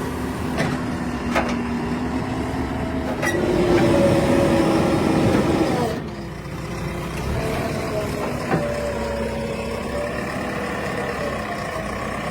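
Heavy vehicle engine running, louder for about two seconds in the middle, with a few sharp clicks.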